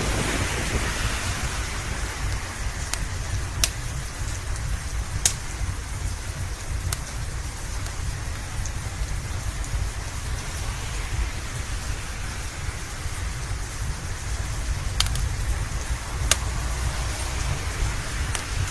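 Steady rain with a deep low rumble underneath, and a handful of sharp pops from a crackling wood fire scattered through it.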